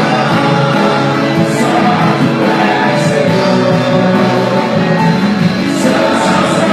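Live worship music: a band playing a song with singing voices, held notes sustained and occasional cymbal washes.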